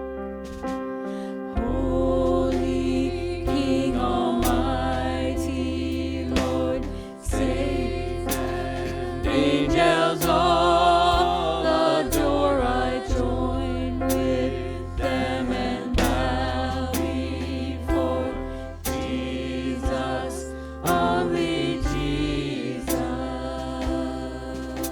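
Church worship song: voices singing over sustained keyboard chords and a steady deep bass.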